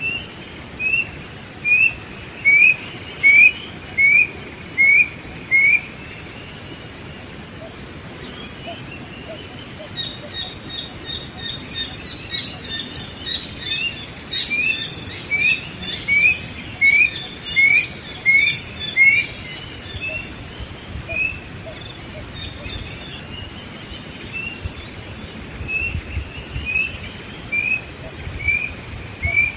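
A wild bird repeats a short, clear note about once a second in runs of six to eight, with a quick run of higher notes about ten seconds in. Insects keep up a steady high-pitched drone beneath.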